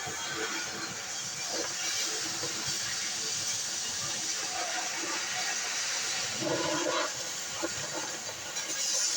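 Oxy-fuel cutting torch hissing steadily as it cuts through thick steel, with irregular crackling.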